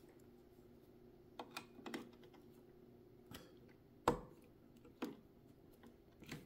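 Light, scattered metallic clicks and taps from a vintage Kenmore sewing machine as the needle is worked out of its clamp, the sharpest about four seconds in. A faint steady hum runs underneath.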